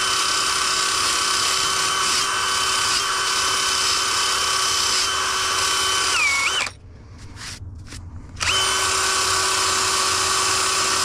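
Power tool spinning a wire wheel against brick, scouring off dirt and old mortar, with a steady high whine. About six seconds in it dips in pitch and stops, then starts up again about two seconds later.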